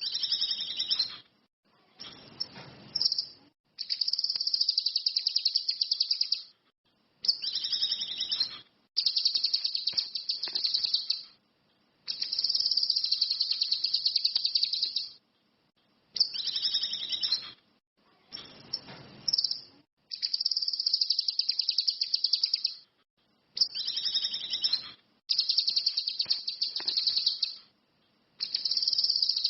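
Cucak kinoi (ranti mas) songbird singing continuously ('gacor'): a run of high, rapid buzzy trills, each lasting one to three seconds, with short pauses between them.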